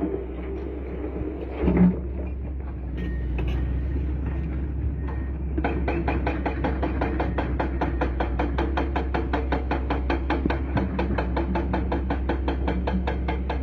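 An excavator running with a steady low hum; a single thump about two seconds in, then from about halfway a fast, even clicking, about five clicks a second.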